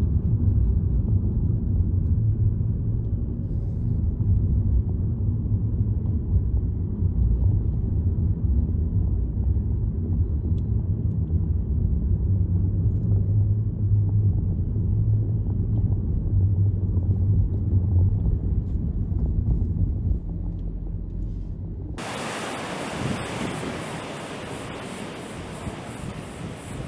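Hurricane-force wind buffeting the microphone: a heavy, steady low rumble. About 22 seconds in it cuts abruptly to a quieter, even hiss of wind and water.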